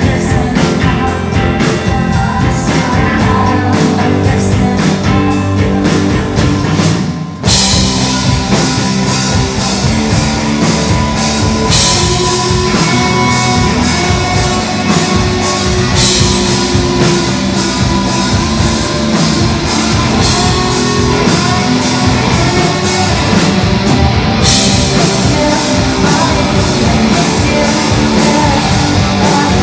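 Loud rock music with a drum kit and guitar. About seven seconds in it drops out for a moment, then the full band comes back in.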